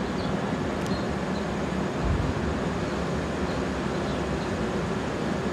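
Steady rumble and hiss of rail traffic at a station platform, with no distinct events or rising pass.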